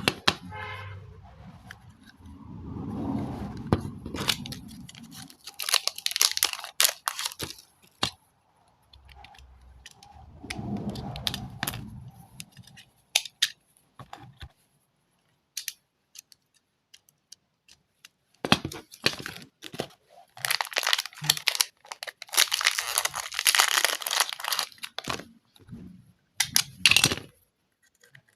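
Hands handling packaging: plastic and paper crinkling and tearing in irregular rustling stretches, broken by many small clicks and knocks.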